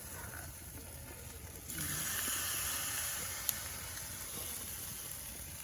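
Food frying in hot oil: a steady sizzling hiss that turns louder about two seconds in, with one short click near the middle.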